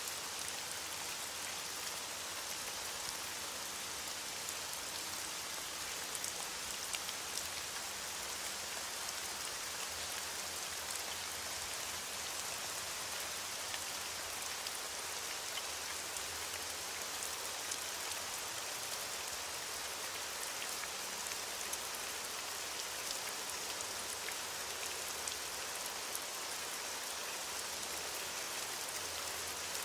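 Steady heavy rain falling on a surface, a dense even hiss with scattered individual drop ticks.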